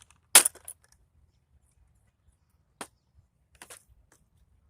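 Sharp knocks of a hammer striking scrap parts: one loud blow with a short rattle just after the start, then a single fainter knock and a quick pair of light knocks later on.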